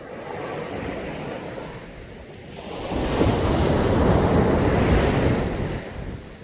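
Caribbean Sea waves breaking on the shore: a small wash in the first two seconds, then a larger wave breaking about three seconds in and washing up for about three seconds before it subsides.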